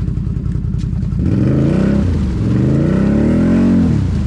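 Can-Am Renegade 1000 XMR ATV's V-twin engine idling, then revved twice from about a second in, the pitch climbing and falling each time before settling back to idle near the end. The quad is high-centered in a mud rut and being driven to get free.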